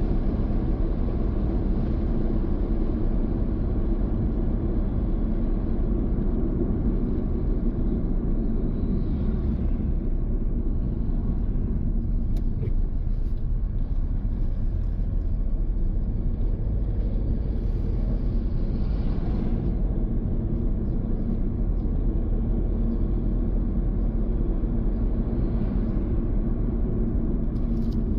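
A car driving, with a steady low rumble of engine and road noise. A few brief swells of higher hiss rise over it now and then.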